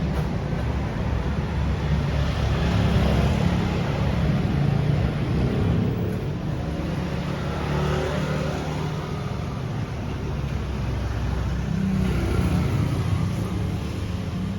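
Street traffic: vehicle engines running with a steady low rumble that swells and eases as they pass.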